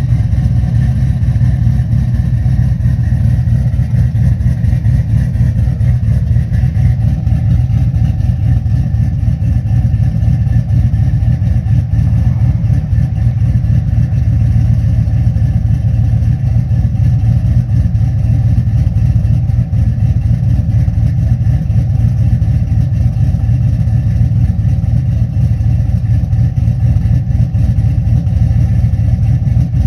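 Chevrolet Silverado's cammed LS-family V8 with long-tube headers idling steadily with a choppy cam idle, warming up just after a cold start in freezing weather.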